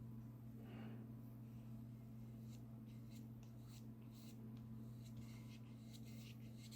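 Faint strokes of a paintbrush laying gouache on watercolour paper, a series of soft brushing sounds over a steady low hum.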